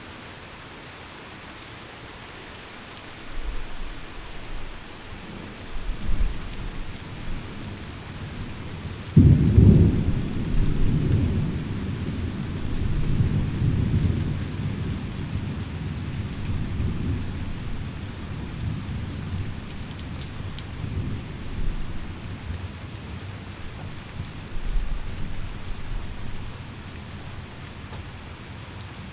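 Heavy rain falling steadily in a thunderstorm. Low thunder rumbles start a few seconds in, a sharp thunderclap comes about a third of the way through as the loudest moment, and a long rolling rumble follows and dies away near the end.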